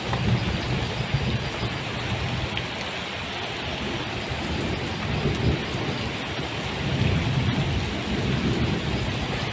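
Heavy rain pouring steadily, with low rolls of thunder rumbling through it, swelling near the start and again in the second half.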